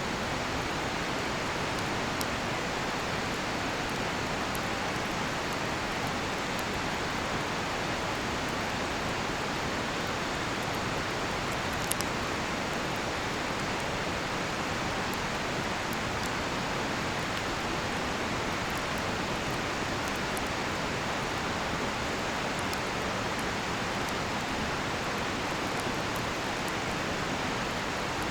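Steady rush of a river, with faint crackles and pops from a burning Japanese cedar (sugi) campfire scattered through it and one sharper pop about twelve seconds in.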